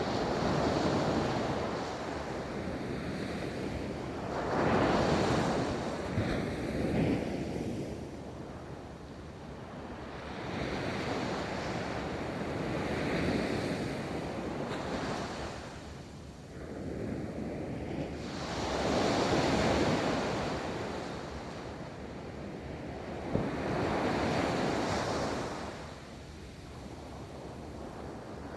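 Ocean waves rolling in and breaking on a beach, the surf swelling and fading every few seconds, with some wind on the microphone.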